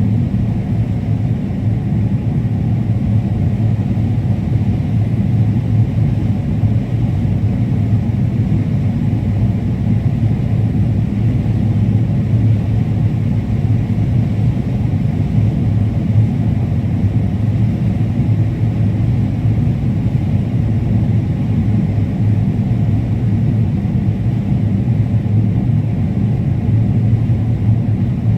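Combine harvester running steadily while harvesting corn: a constant low drone with no change in pitch or level.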